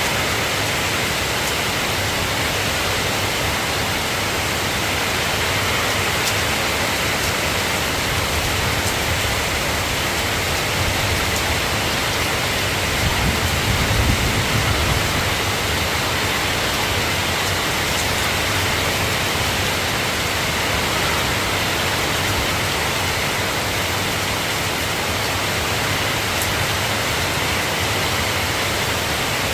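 Soft rain falling steadily, an even hiss, with a brief low rumble swelling about halfway through.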